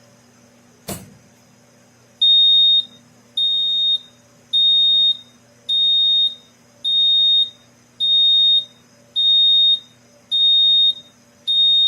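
A click, then the earthquake alarm's piezo buzzer beeping a single high tone in a steady pattern of nine short beeps, a little more than one per second: the device sounding its alarm.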